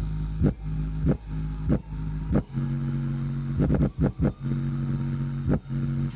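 Bare Samsung 6-inch 4-ohm subwoofer driver in free air playing bass-heavy music loud: held bass notes heavy with overtones under regular drum hits about every 0.6 s. It cuts off suddenly at the end.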